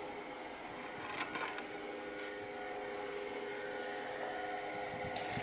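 A steady machine hum holding a few fixed tones, with a few light clicks and taps over it.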